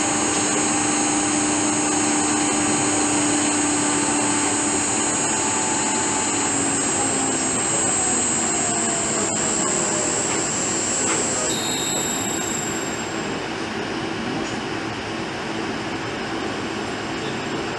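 An electric motor driven by a Fuji inverter is running on test, with a steady broad mechanical noise and a high, thin whine. Midway a tone glides downward, and about two-thirds of the way through the high whine cuts off while the running noise carries on, a little quieter.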